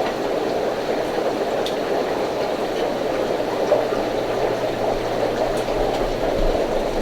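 Steady bubbling and trickling water from aquarium tanks' filters and air pumps, with a faint low hum coming in partway through.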